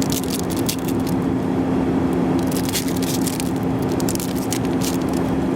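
Crackling and rustling of sports-card pack wrappers and cards being handled, in short clusters, over the steady drone and low hum of a jet airliner cabin in flight.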